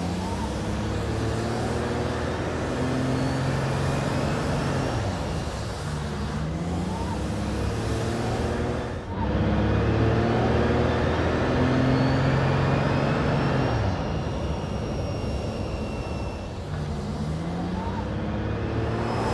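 Audi e-tron Spyder concept car driving, its hybrid drivetrain's V6 diesel engine note climbing under acceleration, holding, then dropping back, three times over. A faint high whine climbs along with it during the pulls.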